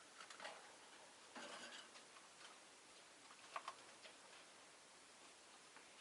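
Faint, scattered ticks and a brief scratchy rustle, about a second and a half in, from a rosy-faced lovebird moving about and nibbling, with no chirping.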